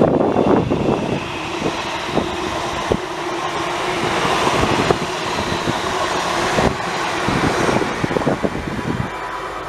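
A train passing close by: a steady rushing noise over a held low hum, swelling about halfway through and easing off near the end.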